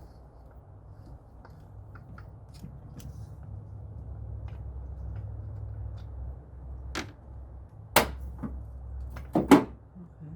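Scattered light clicks and a few sharp metallic knocks, the loudest near the end, over a low rumble: hand tools and engine parts being handled during teardown.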